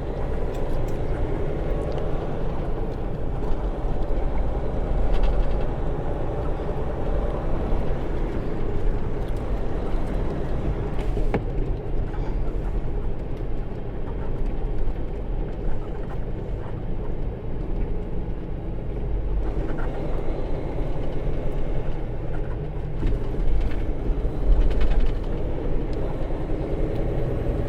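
Semi truck's diesel engine running under way, with road noise, heard from inside the cab as a steady low rumble.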